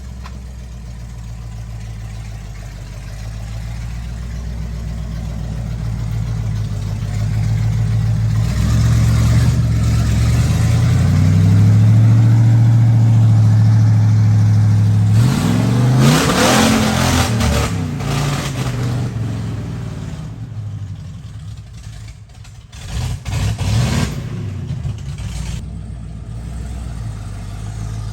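Ford mud truck engine revving up, its pitch climbing and then holding high, before dropping off under a loud rushing noise. A couple of short loud bursts of revving come near the end.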